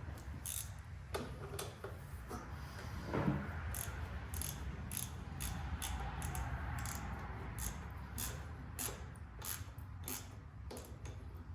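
Socket ratchet clicking in short, uneven strokes as the bolt of a diesel fuel filter housing is tightened, drawing the housing up to squeeze its O-rings.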